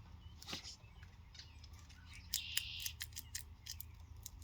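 Irregular crisp clicks and crackles, with a short, louder crackling rustle about two and a half seconds in.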